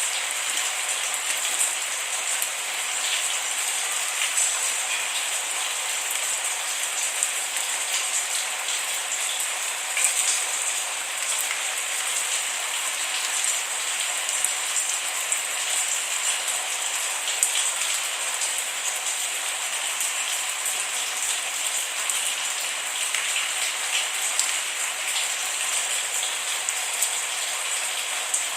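Steady rainfall, a dense hiss of rain with scattered individual drops ticking on a hard surface.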